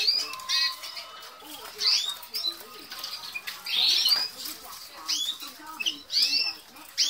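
Red factor canary cocks giving short chirping calls, a quick rising-and-falling note every second or so.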